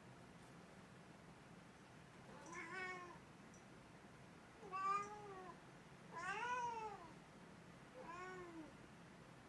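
Domestic cat meowing four times, each meow a short call that rises and falls in pitch, with pauses of one to two seconds between them.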